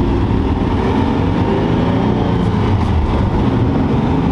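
Twin-turbocharged Nissan 350Z's V6 engine running under way, its pitch rising and falling as the car drives.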